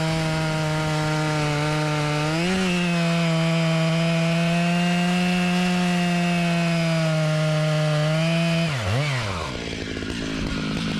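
Two-stroke chainsaw running at full throttle in a cut, holding a steady high pitch that lifts briefly a couple of seconds in. About nine seconds in, the pitch drops sharply and climbs back, then the saw runs on more quietly.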